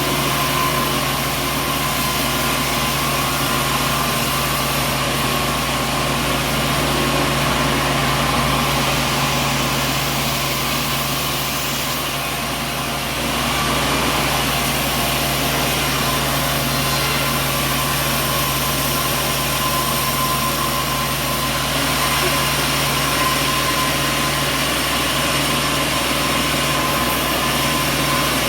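Sawmill machinery running steadily, a constant low hum under a thin high whine, easing a little about halfway through.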